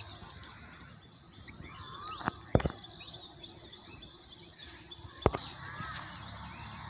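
Small birds chirping and calling over a steady outdoor background, with a few short tweets throughout. Three sharp clicks stand out, two close together about two and a half seconds in and one about five seconds in.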